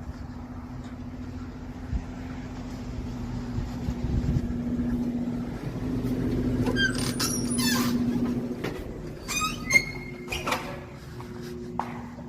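A vehicle running with a steady engine drone. A few short high squeaks come in the middle and again about ten seconds in.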